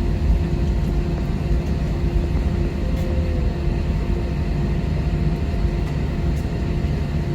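Airliner cabin noise on the ground before takeoff: a steady low rumble with a constant hum from the aircraft's engines and air system.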